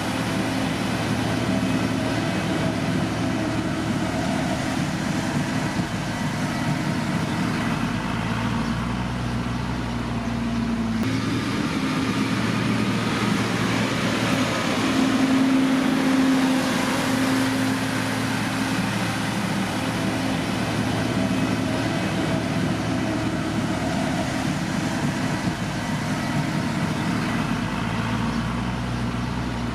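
Diesel engine of a heavy road-construction machine running steadily at working speed, with a low engine hum throughout. The sound changes abruptly about eleven seconds in and gets a little louder around fifteen seconds in.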